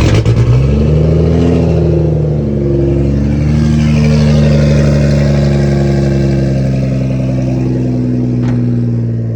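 BMW M2 race car's N55 turbocharged straight-six catching and running after cranking, with its side-exit exhaust: a rev flare as it fires, then it falls and settles into a steady idle after a little wavering in pitch. A single sharp click near the end.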